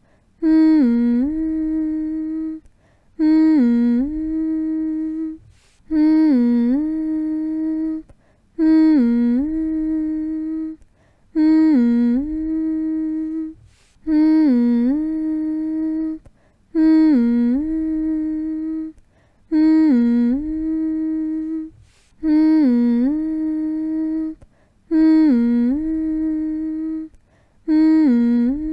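A person humming the same phrase over and over: each hum starts with a dip and rise in pitch, holds one steady note for about two seconds, then breaks off briefly before the next, about every three seconds. It is a slow, even hum meant to lull a baby to sleep.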